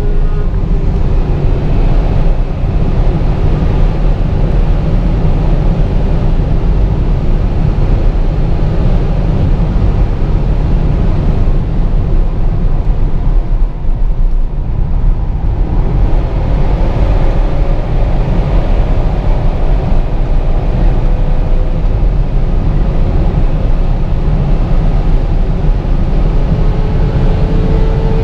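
Audi RS6 Performance's 4.0-litre twin-turbo V8 at autobahn speed, heard from inside the cabin under heavy wind and tyre roar. The engine eases off around halfway, then pulls hard again with a slowly rising note as the car accelerates.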